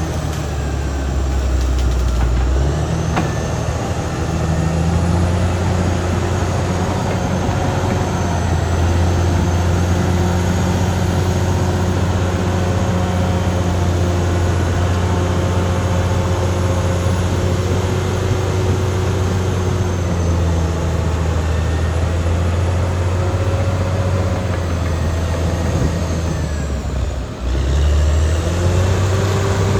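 Caterpillar D6R XL bulldozer's diesel engine running steadily. The sound briefly drops out about 27 seconds in, then comes back slightly louder.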